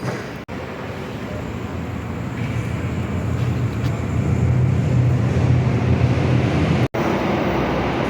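Mercedes-Benz Axor truck's diesel engine running, with a deep steady drone that grows louder over several seconds. The sound cuts out briefly twice, about half a second in and near the end.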